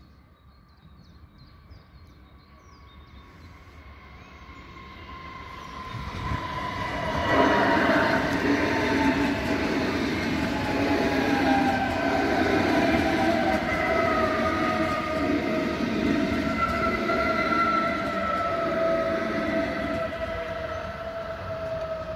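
Red DB class 423 S-Bahn electric multiple unit approaching and passing close by. Its wheels rumble on the rails, growing louder over the first seven seconds or so, and an electric whine from the traction equipment slowly falls in pitch.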